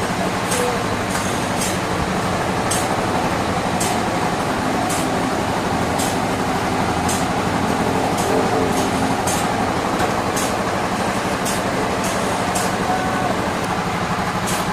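Sawmill machinery running steadily with a continuous heavy, engine-like hum, overlaid by sharp, irregular high clicks about once or twice a second.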